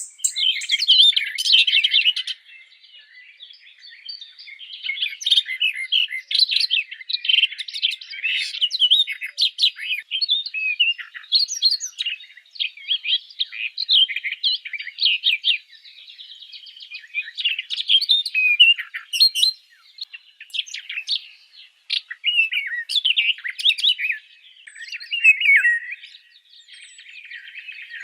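Several small birds chirping and twittering in fast, busy runs of high notes, with a few brief lulls.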